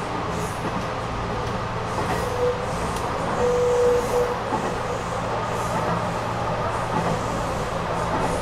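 Nishitetsu Tenjin-Ōmuta Line electric train running, heard from inside the driver's cab: a steady running noise with a low hum underneath. A short higher tone rises above it about three and a half seconds in.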